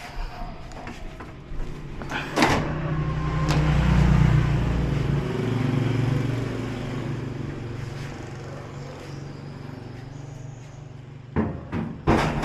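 A motor vehicle's engine hum swells, peaks and slowly fades, like a vehicle passing by. A few sharp clicks are heard near the start and near the end.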